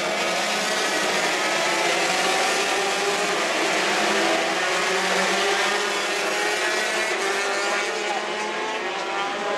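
A pack of 125 cc racing motorcycles running at high revs, many engine notes overlapping in a steady, slightly wavering drone.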